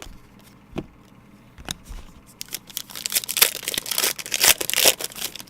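A trading-card pack wrapper being torn open and crinkled, with a couple of light clicks first and then a few seconds of dense crackling.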